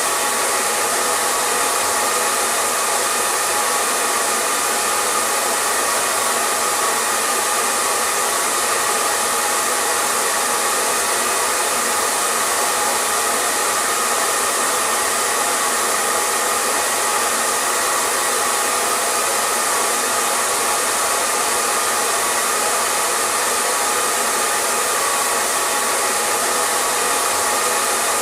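Hair dryer running steadily: a constant airy hiss of the blower with a faint motor whine, unchanging throughout.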